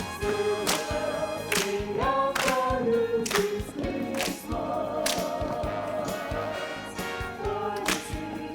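High school choir singing sustained, changing chords over music, with sharp percussive beats roughly once a second.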